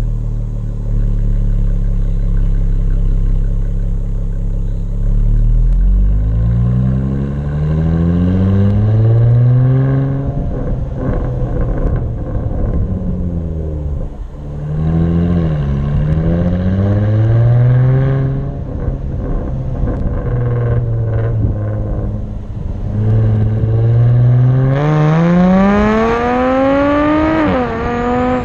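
Jaguar F-Type V6 S's supercharged 3.0-litre V6 through a modified exhaust with the resonator deleted, held low and then run up and let back down several times, with a crackle as the revs fall. Near the end it climbs hard, dips briefly, and climbs again.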